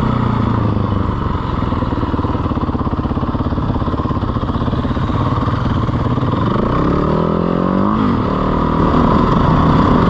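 450cc four-stroke single-cylinder dirt bike engine running under way. Its revs climb over a couple of seconds and drop back sharply about eight seconds in.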